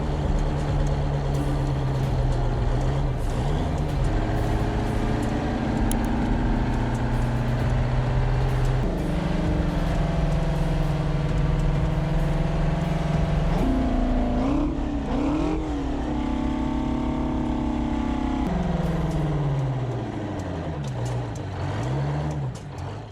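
Large engine running with a steady pitched hum that steps up in speed twice, then slides down as it slows near the end.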